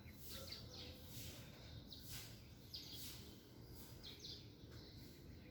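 Small birds chirping faintly, a scattered series of short, high notes that often sweep downward, over a low background rumble.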